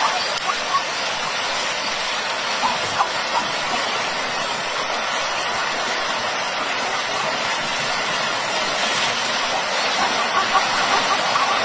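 Steady rushing noise, with a few faint short chirps near the start and again near the end.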